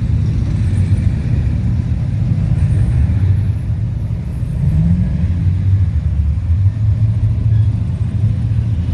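Car engine running with a low, steady rumble, typical of a classic V8 muscle car idling close by.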